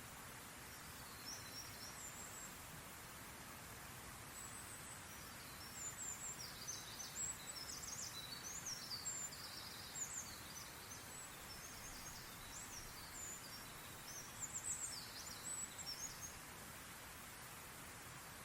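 Small birds chirping and twittering in high, quick notes, in two busy flurries, over a steady hiss of outdoor background noise.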